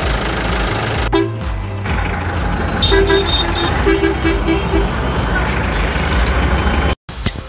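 A vehicle engine running steadily, with a run of short horn toots about three to five seconds in. The sound cuts off abruptly near the end.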